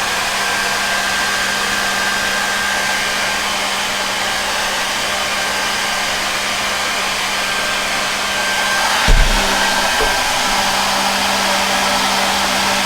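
A hair dryer blowing air through a soft bonnet hood attachment, running steadily with a low hum and a faint high whine. There is a brief dull bump about nine seconds in.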